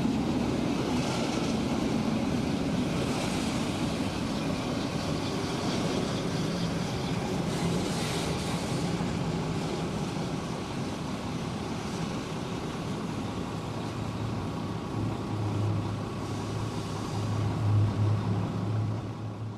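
Southern Pacific freight train's last cars and bay-window caboose rolling past on street track and moving away, a steady noise of wheels running on the rails. A low rumble grows louder near the end.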